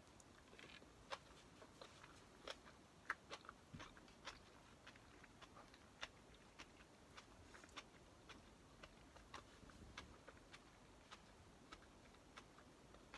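Faint chewing of homemade pancakes with kimchi: a string of soft, irregular mouth clicks, a few louder ones in the first few seconds.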